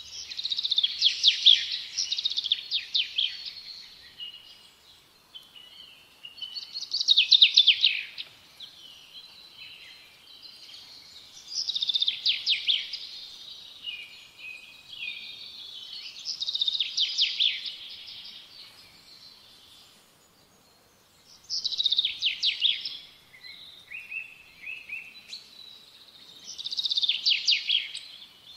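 A songbird singing the same short, rapid trilled phrase six times, about every five seconds, with quieter chirps between the phrases.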